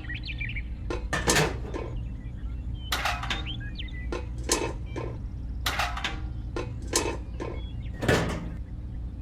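Irregular sharp clacks and knocks of small hard objects being handled, about a dozen spread unevenly, over a steady low hum.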